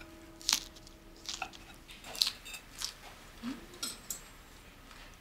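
A person biting and chewing crisp food at the table, with about half a dozen sharp crunches spread over a few seconds.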